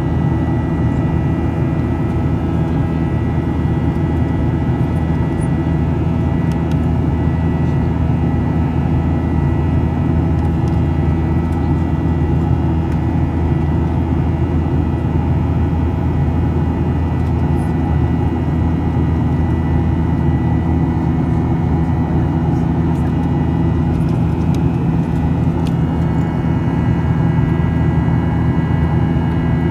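Jet airliner engines droning steadily, with several steady tones over a deep rumble and no change in pitch or level.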